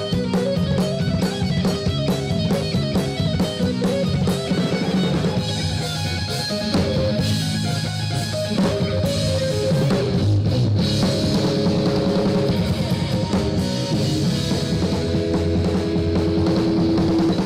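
Live rock band playing an instrumental break, with a drum kit keeping a steady beat under guitar.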